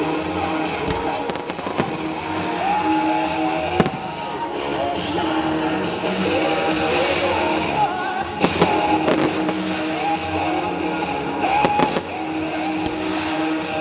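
Fireworks shells bursting over loud pop music from the show's sound system. Sharp bangs come about four seconds in, twice around the middle, and again near the end, with crackling in between.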